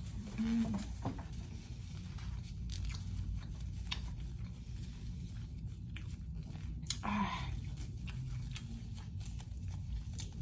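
Close-miked chewing and biting of chicken wings, with small crunches and wet mouth clicks, over a steady low background hum.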